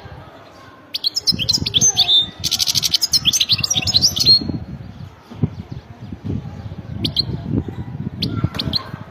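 European goldfinch singing a fast, twittering song phrase for about three seconds, then a few short chirps later on. Low, irregular thudding noise runs underneath.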